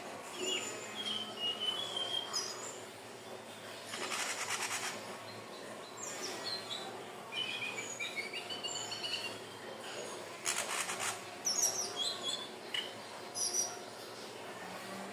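Indigo flycatcher (sikatan ninon) singing: a string of short, high, sliding whistled notes, broken twice by a rapid rattling trill about a second long.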